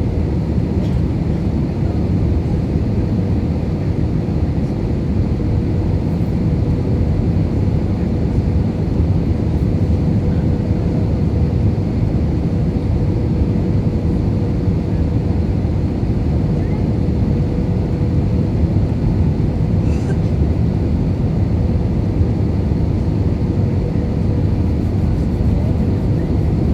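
Steady cabin noise inside an Airbus A320 in flight on approach: a dense, even rumble of airflow and the IAE engines, with a steady whine running through it.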